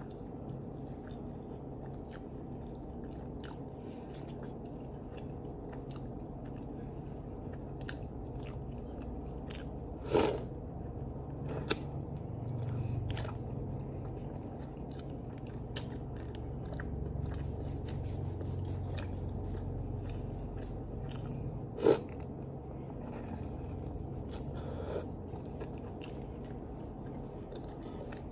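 Close-up mouth sounds of a person chewing soup-soaked bread: wet smacks and many small sharp clicks, with two louder clicks about ten seconds in and again near twenty-two seconds, over a steady low room hum.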